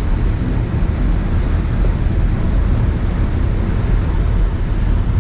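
Steady rumble of a car driving at speed: road and engine noise mixed with wind.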